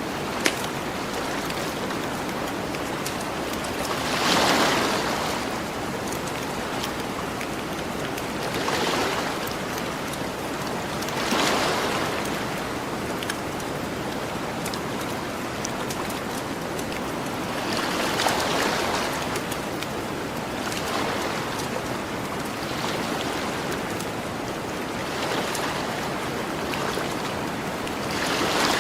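Ocean waves washing onto a shore: a steady hiss of surf that swells with a breaking wave every few seconds. A campfire crackles under it, with a sharp pop about half a second in.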